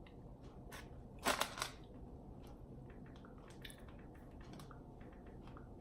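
Eating sounds: soft chewing with faint wet clicks throughout, and a short, louder crunch a little over a second in.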